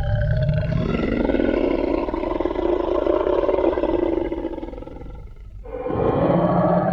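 Tyrannosaurus rex roar sound effect: one long roar that fades out about five seconds in, then a second roar starts near the end.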